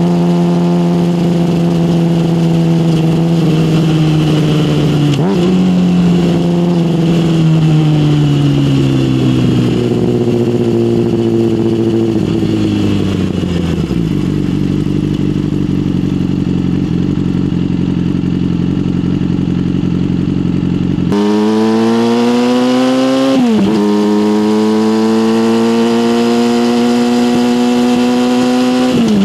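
Yamaha motorcycle with an aftermarket SC Project exhaust, heard from the rider's position. The engine note holds, dips once, then winds down to a steady low idle as the bike slows. It then pulls away again, climbing in pitch with a quick dip at an upshift and climbing again.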